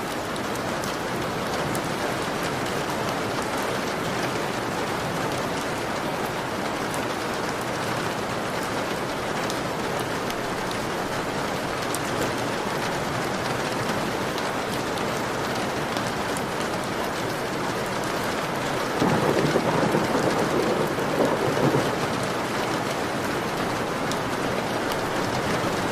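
Heavy rain falling steadily on a window. About three-quarters of the way through, a sudden louder rush rises over the rain for about three seconds, then drops back.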